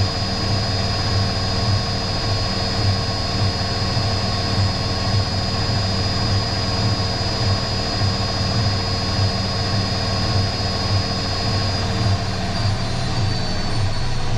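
Electrolux EW6S404WU ecobubble washing machine spinning, a steady motor whine over the low rumble of the drum. The whine drops slightly in pitch near the end.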